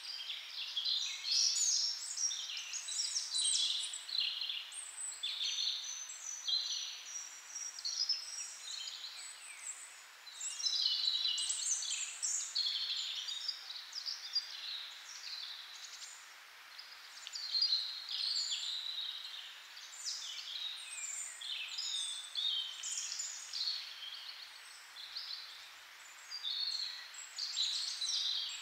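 Birds chirping and twittering, many short high calls and trills crowding one after another.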